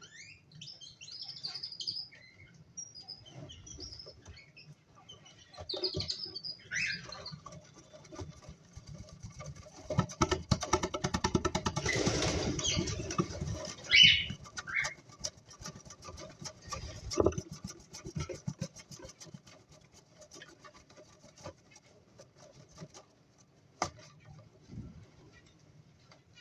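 Cockatiels chirping in short high calls, with a few seconds of wing flapping and rustling about ten seconds in and a loud chirp just after it.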